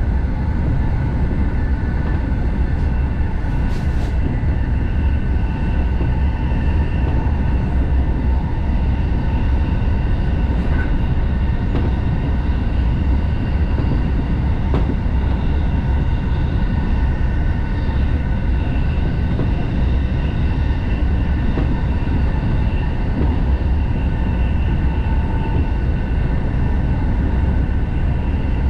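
Steady running noise inside a JR Sobu Line Rapid commuter train travelling at speed: a deep rumble of wheels on rail with several steady whining tones above it.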